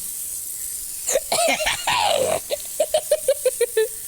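A child laughing: a high voice breaks out about a second in, then a quick run of short "ha" pulses, about six or seven a second, near the end.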